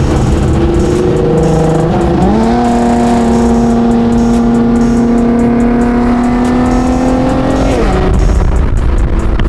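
Car engine under hard acceleration, heard from inside a moving car over wind and road noise. About two seconds in it climbs sharply in pitch and holds at high revs, then drops off near the end.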